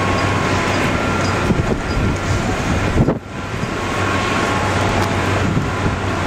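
Strong wind rushing over the microphone in a blizzard, with a vehicle engine's steady low hum underneath. The sound briefly dips and changes about three seconds in.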